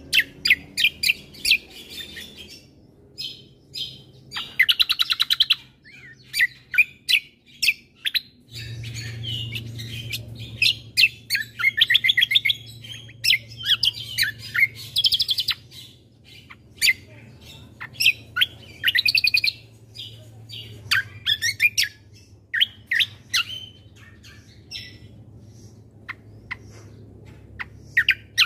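Kecial kombo (cucak kombo) songbird singing in repeated bursts of fast chattering trills and sharp chirps. A low steady hum runs underneath from about a third of the way in.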